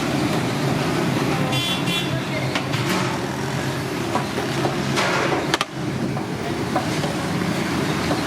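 Busy street traffic: a steady mix of vehicle engines, with a horn tooting briefly about two seconds in.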